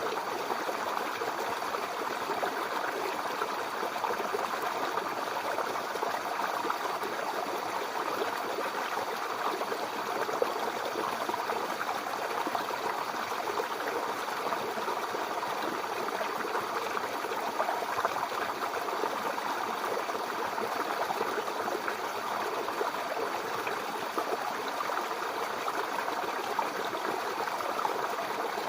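Babbling brook: shallow water running steadily over stones, with a constant splashing and trickling.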